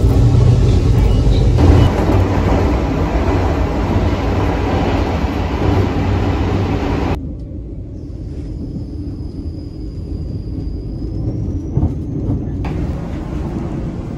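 Series 381 limited express electric train running, heard from inside: a loud steady rumble and rattle of the moving train, which drops suddenly to a quieter steady running noise inside the passenger car about seven seconds in.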